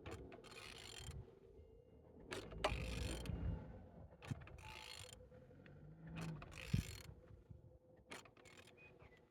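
A removed car engine being turned over by hand: several short bursts of mechanical clicking and rasping as the crank is rotated. It turns smoothly, without binding.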